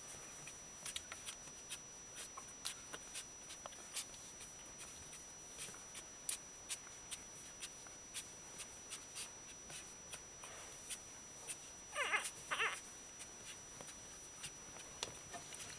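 Newborn Shiba Inu puppy giving two short high squeaks close together about twelve seconds in, over faint scattered clicks and ticks.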